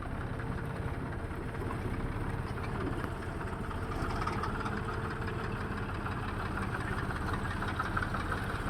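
Heavy diesel engine running steadily at an even speed, with a fast regular pulse in its note.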